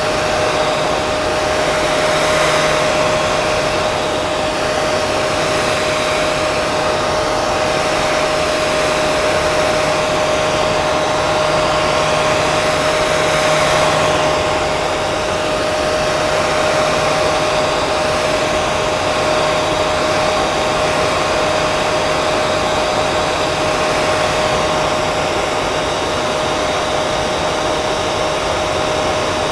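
Hair dryer running continuously: a steady rush of air with a constant motor whine and slow, gentle swells in loudness.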